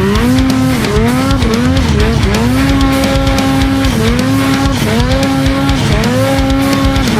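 Snowmobile engine revving hard, its pitch climbing, dipping and holding several times as the throttle is worked, with music playing underneath.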